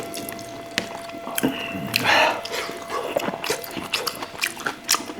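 Close-miked mukbang eating of fatty pangas fish: wet chewing and lip-smacking with many quick clicks, and a louder slurp-like burst about two seconds in.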